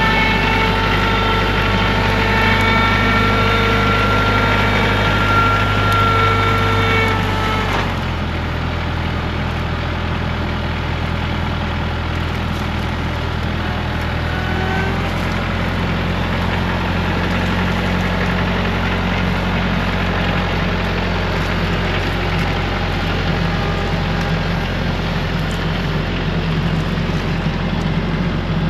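Tractor engine running steadily, with a whine over it for the first eight seconds or so; about eight seconds in the whine stops and the engine note changes.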